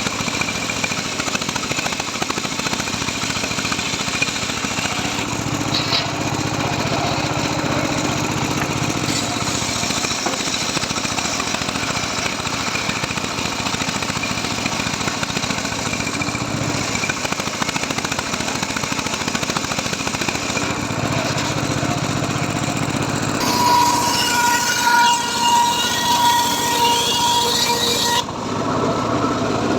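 Engine-driven saw running steadily while cutting teak wood. A high squeal rises over it from about 23 seconds in and stops about five seconds later.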